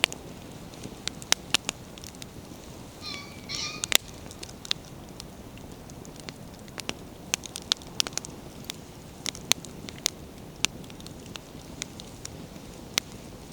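Wood campfire burning: a steady low rush of flames with frequent sharp pops and crackles from the burning logs. Two short bird calls sound about three seconds in.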